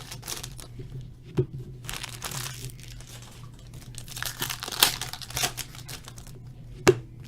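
Foil trading-card pack wrappers crinkling as packs are handled and torn open, with two sharp snaps, about a second and a half in and near the end.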